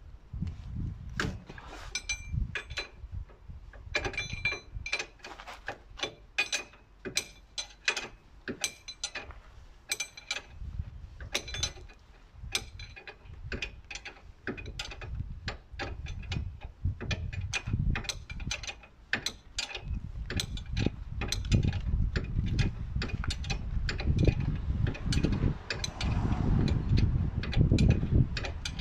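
Hand ratchet wrench clicking in repeated short strokes while turning a fastener on the front wheel hub, with a low rumble of metal handling that grows louder near the end.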